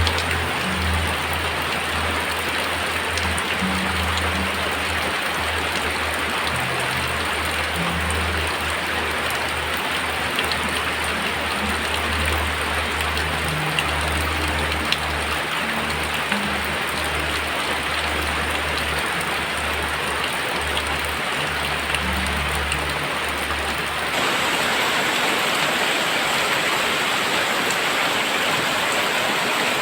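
Heavy rain falling, a steady dense hiss with scattered drop ticks. A low rumble underneath stops abruptly about 24 seconds in, and from there the rain is slightly louder.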